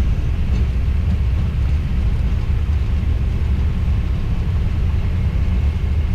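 Steady low rumble in a Boeing 777 cockpit as the airliner rolls out along the runway after landing, wheels and engines carrying through the airframe. A faint high steady tone comes in near the end.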